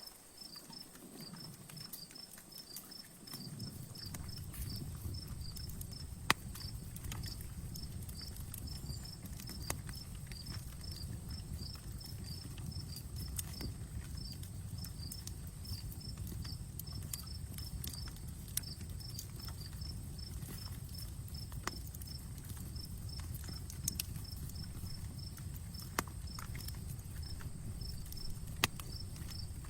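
Campfire crackling, with sharp pops every few seconds over a low steady rumble that comes up during the first few seconds. A cricket chirps steadily in quick, regular pulses throughout.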